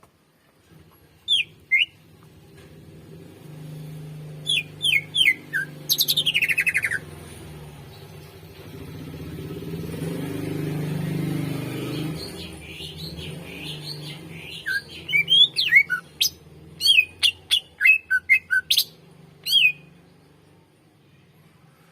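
Cucak ijo (green leafbird) singing: short, sharp whistled notes and chirps in clusters, a fast falling trill about six seconds in, and a dense run of notes from about fifteen to twenty seconds in. A low hum swells in the background around ten to twelve seconds in.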